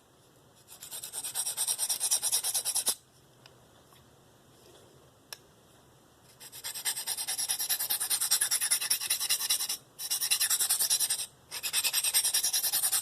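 Steel knife edge being stroked rapidly across a coarse DMT Diafold diamond sharpening plate, giving a dry, rasping scrape. It comes in runs of quick strokes: one about two seconds long, then after a pause, longer runs broken by brief stops.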